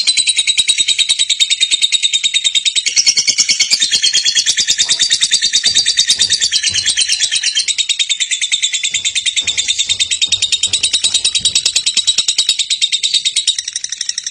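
Lovebird giving its long 'ngekek' chatter: a fast, unbroken string of high chirps, about eight to ten a second.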